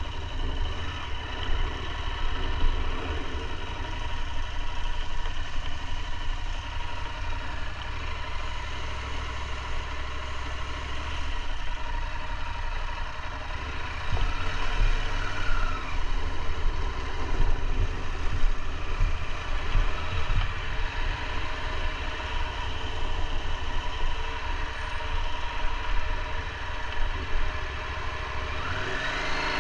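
KTM 890 Adventure R's parallel-twin engine running steadily under the rider, with a low rumble and a constant haze of road and air noise; the pitch rises and falls briefly about halfway through and again near the end.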